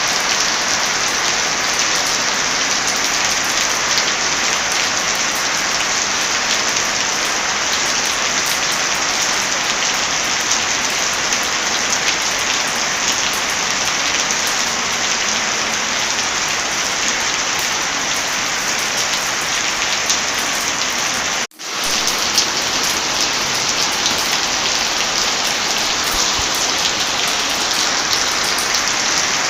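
Heavy rain falling steadily, a dense even hiss of drops with scattered sharp ticks. About two-thirds through it cuts out for an instant and comes straight back.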